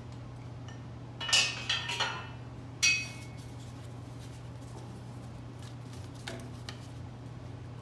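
Metal machine parts or tools clinking together: a short clatter of several knocks a little over a second in, then one sharp, ringing clink about three seconds in, over a steady low hum.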